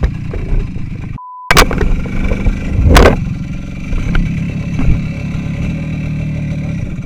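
Small motorcycle engine running under way. About a second in, a short, steady beep briefly replaces all other sound, and about three seconds in there is a loud knock.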